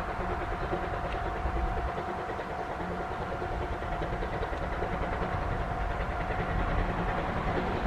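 Steam-hauled passenger train running along the track: a steady low rumble of the locomotive and coaches, with a faint steady tone held throughout.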